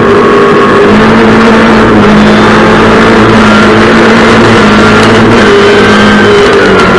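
Race car engine at full throttle, launching from a standing start and accelerating hard, heard loud and close from a microphone on the car's bonnet.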